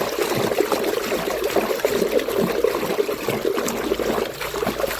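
Water sloshing and trickling with many small bubbly splashes as a toy vehicle is washed in water.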